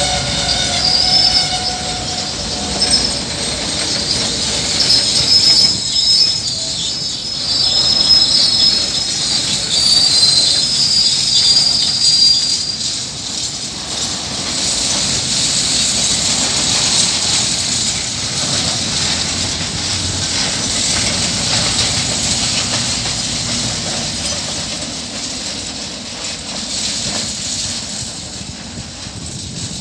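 Freight wagons of a KiwiRail coal train rolling past, their steel wheels rumbling on the rails. High wheel squeal rings over the rumble for the first dozen seconds or so. The sound fades near the end as the last wagons go by.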